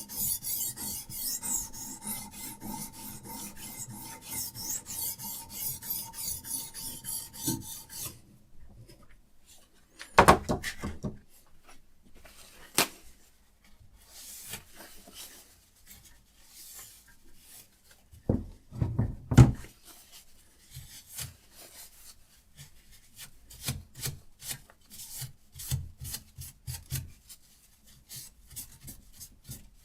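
Diamond sharpening stone on a Hapstone RS guided sharpener rasping in rapid back-and-forth strokes along a steel knife blade, with a faint ringing tone. The strokes stop about a third of the way in. Two loud knocks follow, and softer strokes start again near the end.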